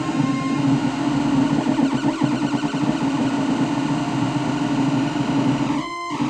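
Modular synthesizer patch: a saw-wave oscillator frequency-modulated by a sine wave and run through distortion, giving a harsh, noisy low drone. A thin high tone drops out about half a second in, and the sound breaks off briefly near the end before resuming.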